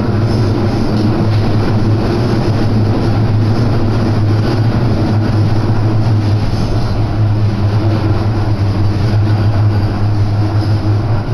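Electric commuter train running, heard from inside the passenger car: steady rolling noise with a strong low hum.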